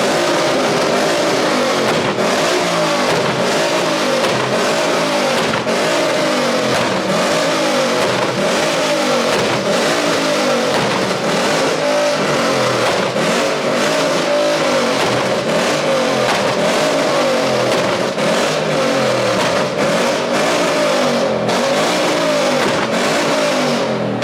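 A car engine is revved hard over and over, its pitch climbing and dropping again and again, very loud.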